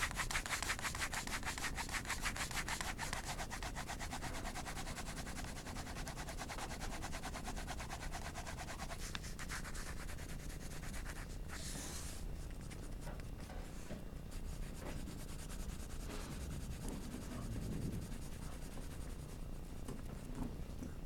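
Graphite pencil shading on paper: fast back-and-forth scratchy strokes for the first several seconds, then lighter, more scattered strokes, with a brief louder scrape partway through.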